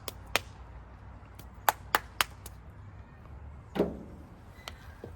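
Irregular sharp clicks and snaps from work under the hood as a part is pried loose, with a louder knock a little before the end.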